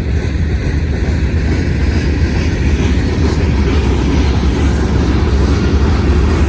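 Freight train cars rolling past close by, a steady low rumble that grows slightly louder.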